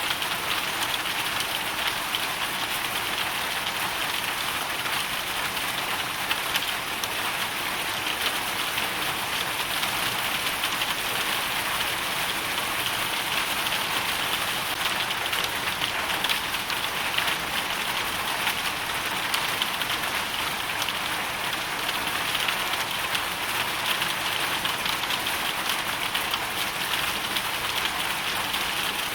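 Hailstorm: hail and rain pelting down in a steady, dense patter of countless small hits.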